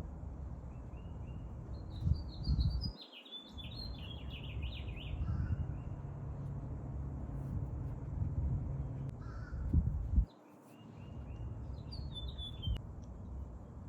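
Birds chirping in bursts of quick high notes, about two seconds in and again near the end, over a low steady rumble that drops out briefly twice.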